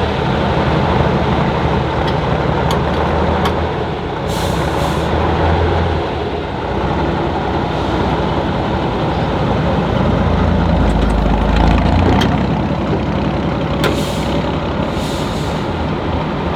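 Heavy off-road trial truck's diesel engine running with a steady low rumble, with a few short hisses of released air, one about four seconds in and two more near the end.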